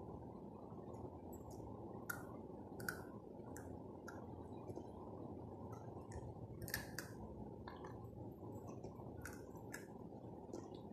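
Someone chewing a crunchy fried snack, with sharp, irregular crunches over a steady low background hum.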